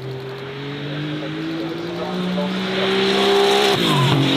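Racing car engine accelerating hard, its note climbing steadily and growing louder for about three seconds, then dropping sharply near the end.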